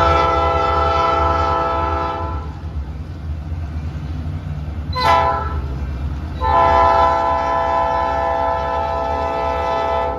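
Freight train's diesel locomotive horn: a long blast, a short blast about five seconds in, then another long blast, over the steady low rumble of the locomotive.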